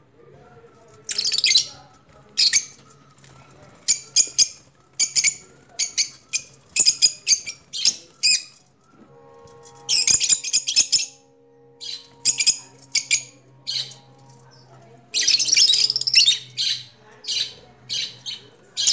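Small birds chirping in quick clusters of short, high-pitched calls, over a faint low steady hum.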